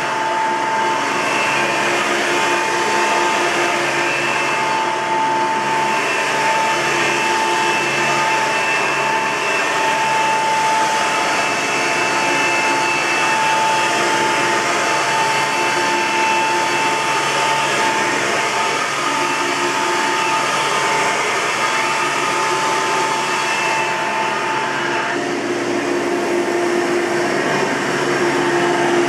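1999 Hoover Soft & Light Elite upright vacuum cleaner's motor running steadily with a wavering, siren-like whine. The motor bearing is worn, and the owner has determined that it needs replacing even after fresh grease. Near the end, the whine gives way to a lower hum.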